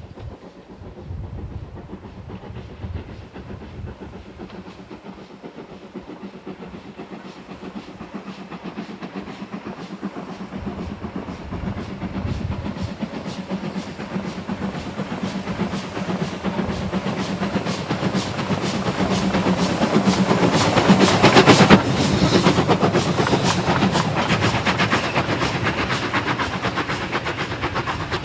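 A heritage railway train approaching and passing, growing steadily louder to a peak about two-thirds of the way through. From there the wheels clatter rapidly over the rail joints as the carriages go by.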